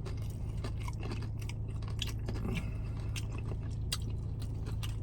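Close-up chewing of a mouthful of beef nachos, with irregular crisp crunches of tortilla chips. A steady low hum runs underneath.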